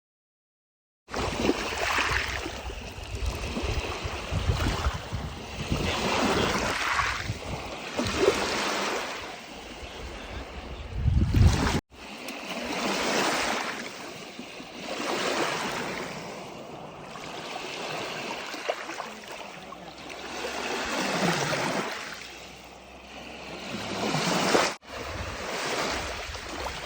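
Lake Superior waves breaking on the shore, the wash swelling and falling back every couple of seconds, with wind rumbling on the microphone in the first part.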